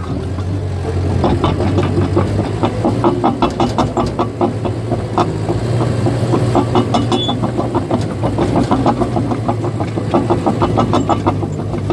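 Caterpillar bulldozer's diesel engine running steadily under a rapid, regular clatter of its steel tracks from about a second in until near the end.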